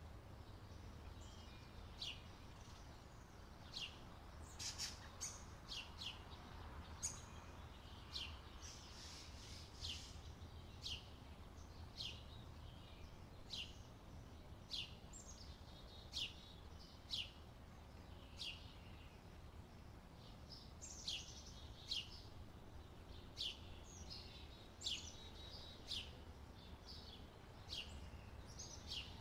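Faint birdsong: a bird repeats a short chirp that sweeps down in pitch, about once a second, among softer chirps. A steady low hum runs beneath.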